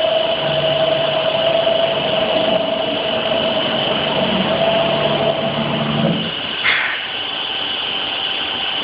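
Wadkin 5-axis CNC trimming machine running: a steady high whine throughout, with a lower humming drive tone that stops about six seconds in, followed by a short hiss.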